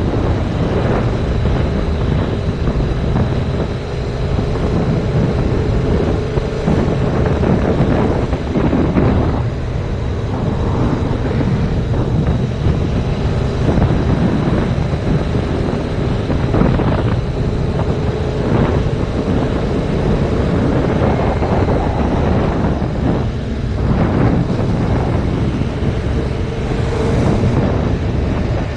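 Heavy wind noise buffeting the action camera's microphone on a moving motorcycle, a steady loud rush with the 2019 Yamaha MT-07's parallel-twin engine running beneath it.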